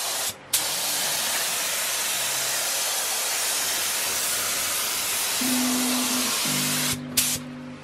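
Paint spray gun hissing as it sprays blue paint onto a car's boot lid, in long steady passes with a brief stop just after the start and a short break near the end. Background music comes in towards the end.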